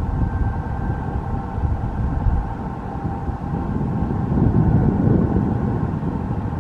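Express passenger train passing at speed: a steady rumble of wheels on the rails that swells to its loudest about four to five seconds in, with wind on the microphone.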